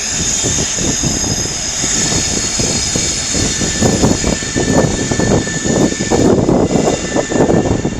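Class 60 diesel locomotive pulling away past the platform, its engine running hard with a thin high whine over the drone. From about four seconds in, a rapid irregular clatter grows louder over the engine.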